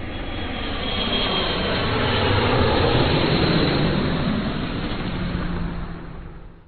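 Jet aircraft passing overhead: a rushing engine noise that swells to a peak about three seconds in, then fades away.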